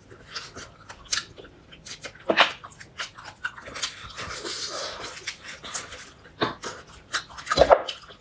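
Close-up eating sounds of a person chewing chicken wing: wet mouth clicks and smacks throughout, with louder ones about two and a half seconds in and near the end.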